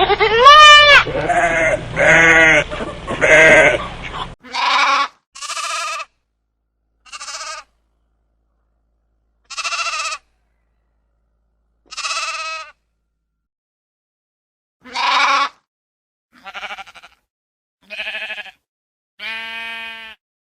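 Repeated bleating from farm animals. Several overlapping bleats over a low steady hum open the stretch; the hum cuts off about four seconds in, and single bleats then follow every second or two with silence between them.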